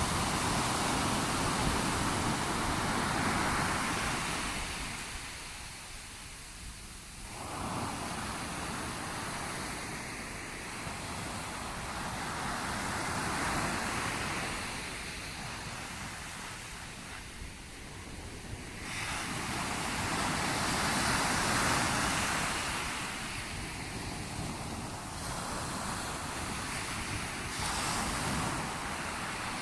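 Sea waves breaking and washing up the shore, the surf swelling and falling back in slow surges several seconds apart.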